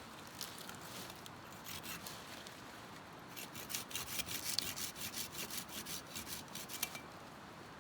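A hand tool scraping on wood in quick rhythmic strokes, about five a second, for a few seconds in the middle, with a few scattered scrapes before.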